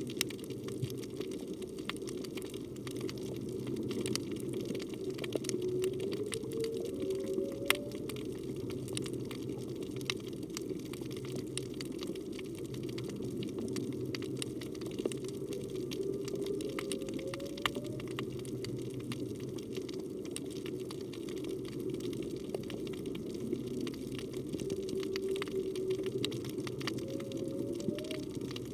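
Whale song heard underwater, which the uploader takes for a humpback whale: three groups of rising moans about ten seconds apart, over steady low underwater rushing noise and scattered crackling clicks.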